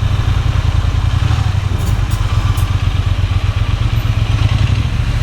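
Triumph Bonneville T120's 1200 cc parallel-twin engine running steadily at low revs on its stock exhaust, before the catalytic converter is removed.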